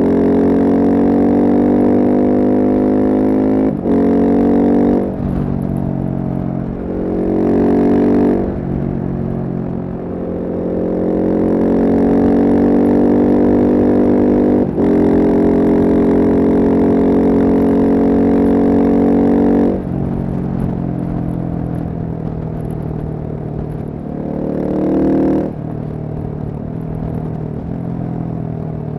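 Single-cylinder Husqvarna supermoto engine pulling through the gears. The pitch climbs with the revs and drops sharply at each shift or roll-off, several times. After about twenty seconds it settles to lower, lighter revs, with one short rev-up near the end.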